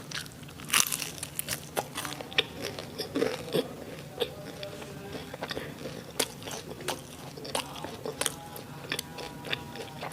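Close-miked crunchy biting and chewing of crispy fried sausage and onion, a run of sharp, irregular crackles and crunches.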